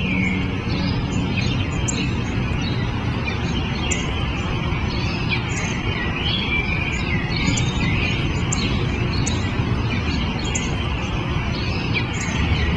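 Small birds chirping and twittering on and off, many short calls, over a steady low background rumble.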